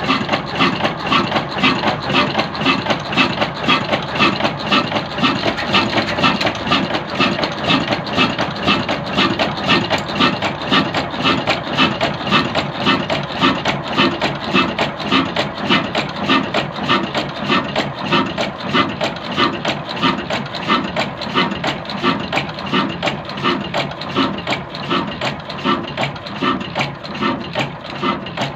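Old 22 hp Hafiz desi diesel engine running steadily with an even, regular beat.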